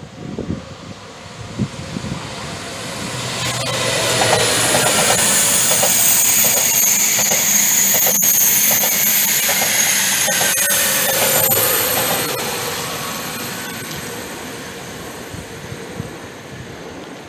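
A TGV Duplex double-deck electric high-speed train passing at speed. Its rushing wheel and air noise swells over a few seconds, stays loud with a high hiss and a few sharp clicks while the coaches go by, then fades away.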